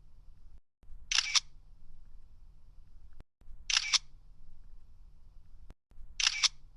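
Camera shutter clicking three times, about two and a half seconds apart, each a quick click-clack, with a faint low hum between the clicks.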